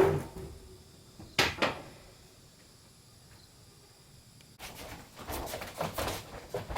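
Woodworking by hand: two sharp wooden knocks about a second and a half in, a quiet spell, then a busy run of rapid knocks and scrapes in the second half.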